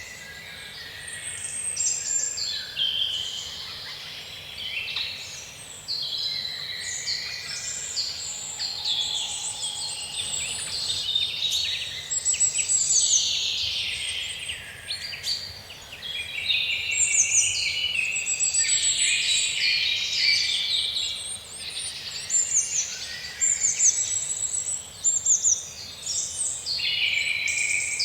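A dense chorus of many songbirds singing at once: overlapping chirps, whistles and fast trills.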